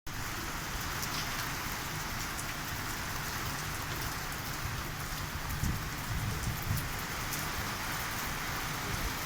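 Heavy downpour: a steady, dense hiss of rain, with gusts of wind rumbling low now and then, strongest a little past the middle.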